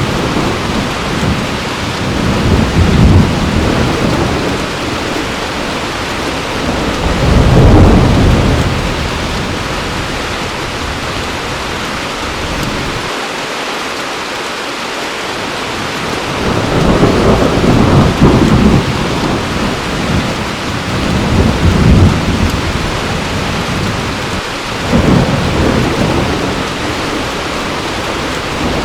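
Heavy rain falling steadily, with rolls of thunder rumbling in low swells every few seconds and a brief lull in the thunder about halfway through.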